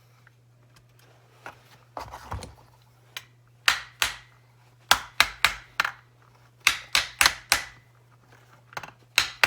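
Sharp metallic clicks and knocks of tools and small carburettor parts being handled on a workbench. They come in quick groups of several knocks, a few ringing briefly.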